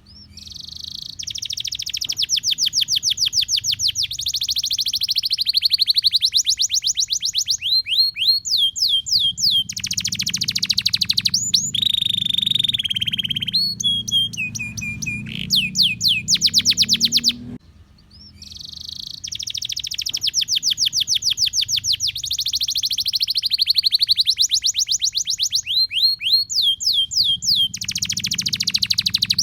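Domestic canary singing a long, continuous, high-pitched song of rapid trills and rolls. There is a short break about two-thirds of the way through, and then the same run of phrases begins again.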